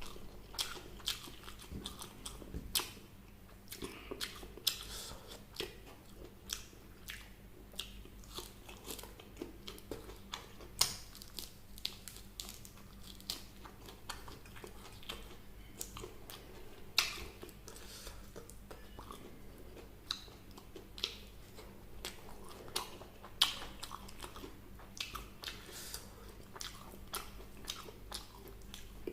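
Close-miked eating of a fried chicken and vegetable meal: crisp crunching bites and chewing, with many sharp crunches at irregular intervals, a few a second.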